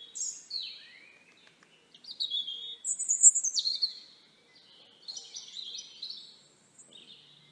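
Songbird singing in short, varied high phrases of quick notes and slides, with brief pauses between phrases.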